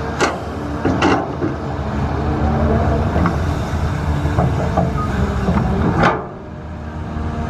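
Heavy diesel machinery running steadily with a low drone, with a few sharp knocks: one near the start, one about a second in and a loud one about six seconds in, after which the sound turns duller and quieter.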